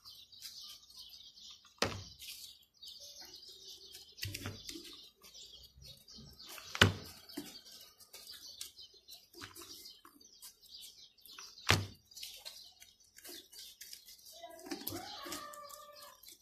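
Small birds chirping over and over in the background, with a few sharp knocks about two, seven and twelve seconds in.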